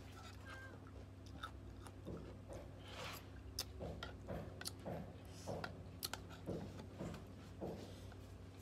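Close-up chewing and crunching of raw cucumber slices soaked in vinegar, with short sharp clicks now and then from a metal spoon against a ceramic bowl.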